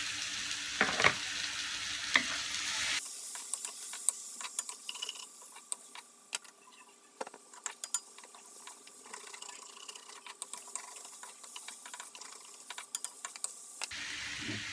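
Chicken and black fungus frying in sesame oil in a wok, sizzling, with a utensil clicking and scraping against the pan as it is stirred. The sizzle is louder for the first three seconds, then quieter.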